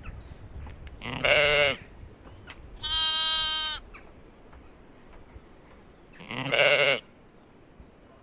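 Sheep or goats bleating: three separate calls, the first and last quavering, the middle one higher and steadier.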